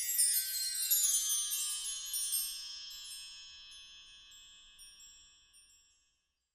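A run of metal chimes sweeping from high to low pitch, then ringing on and slowly fading out to silence as the music ends.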